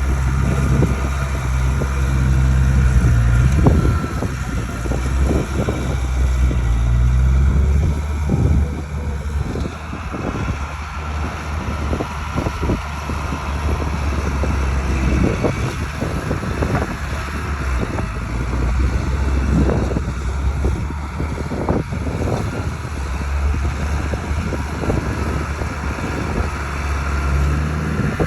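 Bulldozer's diesel engine running under varying load, its low drone rising and falling, with irregular metallic knocks and clanks throughout.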